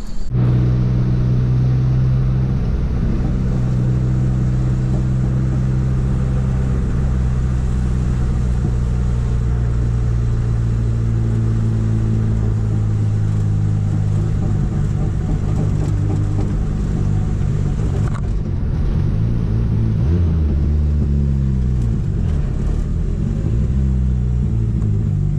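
Chevrolet Chevette's engine running at a steady idle, then revved up and down several times in the last few seconds. It is a test run after the exhaust was bent clear of the gearbox mount it had been knocking against.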